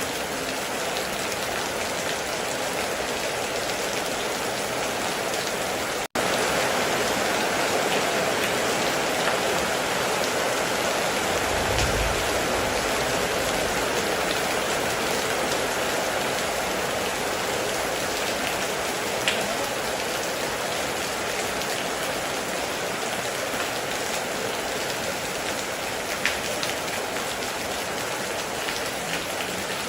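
Heavy rain falling steadily, with a few louder individual drops ticking. The sound cuts out for a split second about six seconds in and comes back slightly louder.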